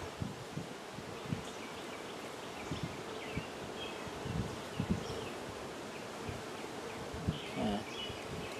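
Honeybees buzzing in a steady hum around an opened hive frame, with scattered short low thumps.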